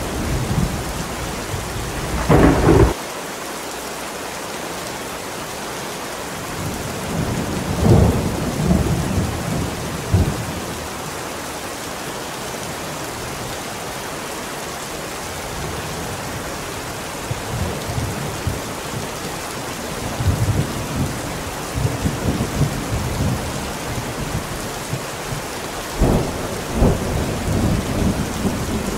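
Thunderstorm: steady rain with repeated thunder. A low rumble ends abruptly with a sharp crack a few seconds in, another crack comes around eight seconds, and rolling rumbles with more cracks fill the last third.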